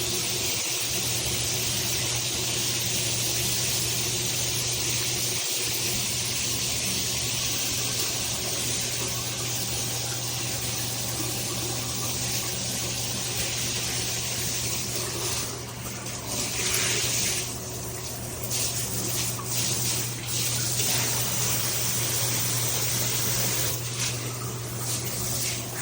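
Water spraying steadily from a shower head. The hiss of the spray dips and breaks up several times, from about 16 to 21 seconds in and again briefly near the end.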